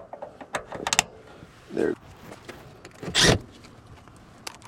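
Sharp clicks of metal hardware being handled, then a short, loud clunk about three seconds in.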